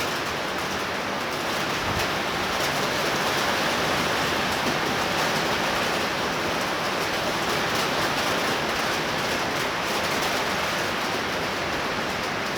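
Torrential rain pouring down steadily, a dense even hiss of heavy rainfall.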